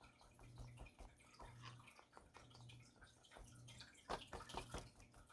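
Faint irregular drips and small ticks of fluid acrylic paint draining out of an upturned pour cup onto a canvas, a little louder about four seconds in, over a low hum.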